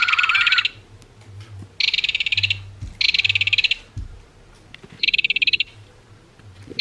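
Recorded belted kingfisher rattle call played from the sound chip of a Wild Republic plush bird, a dry, fast rattle repeated about four times with short gaps.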